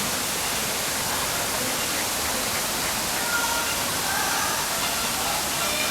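Steady rushing noise of falling water, with faint thin tones coming in over it from about three seconds in.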